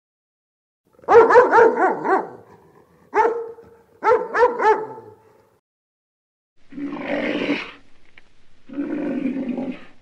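A dog barking: a quick run of about five barks, a single bark, then three more. Two lower, rougher sounds follow in the second half.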